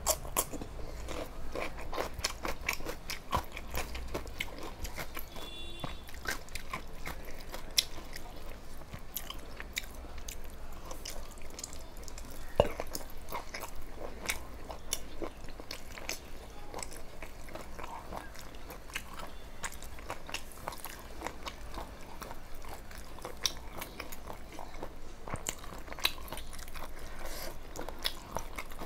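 A person chewing and crunching food close to the microphone, with many small, irregular crisp clicks of the mouth at work.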